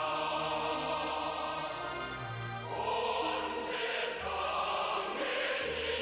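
Choir singing sustained notes over orchestral accompaniment, with the bass line moving through several notes.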